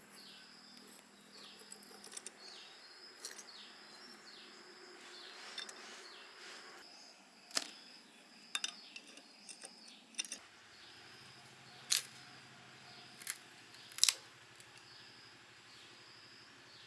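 Several sharp clicks and knocks of hand work, the loudest about fourteen seconds in, over a steady background of repeated insect chirps. A low hum comes in about ten seconds in.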